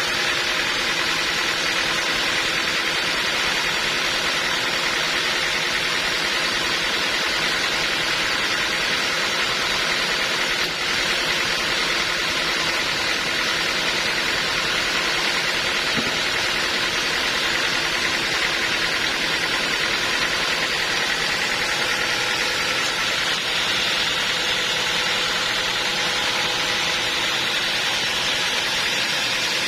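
Sawmill band saw running steadily: a continuous even hiss with a steady machine hum under it.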